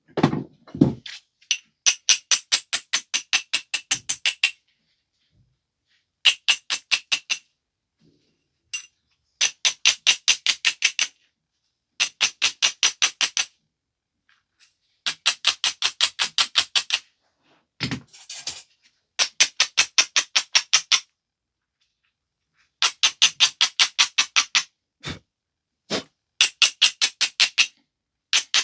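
Abrading stone rubbed quickly back and forth along the edge of a flint biface, a scratchy grinding in about eight bursts of rapid strokes, around six a second, with a few single knocks between them. The rubbing dulls and strengthens the edge as platforms for the next flakes.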